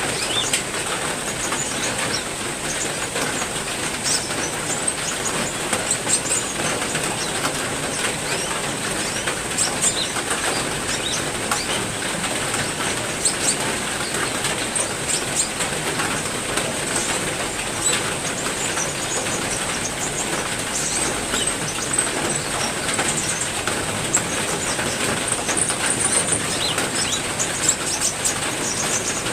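Heavy rain falling steadily, with many sharp drop ticks pattering through it. A thin steady high tone sits over it, and a few brief high bird chirps come in near the end.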